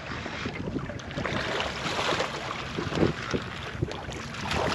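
Wind on the microphone and water moving against a small boat's hull, an uneven noise with faint scattered ticks.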